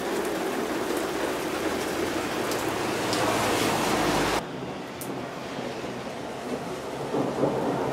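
Heavy rain falling in a steady downpour hiss. About four and a half seconds in it drops suddenly to a quieter, duller hiss.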